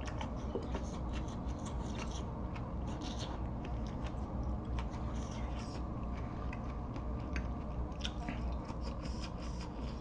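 Close-miked eating: small crisp, wet mouth clicks of chewing, in clusters, over a steady low hum.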